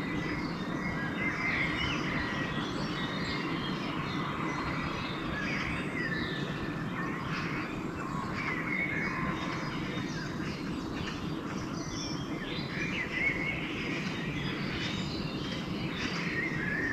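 Pre-dawn chorus of several songbirds: many overlapping chirps, trills and whistles over a steady low rumble of background noise.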